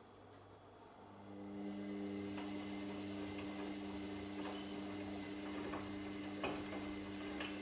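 Washing machine motor starting up about a second in and running with a steady hum as the drum turns, with light clicks roughly once a second as the laundry tumbles.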